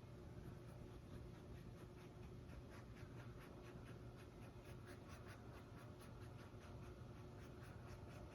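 Faint, quick strokes of a paintbrush dabbing and dragging acrylic paint across a stretched canvas, about three to four strokes a second, over a low steady room hum.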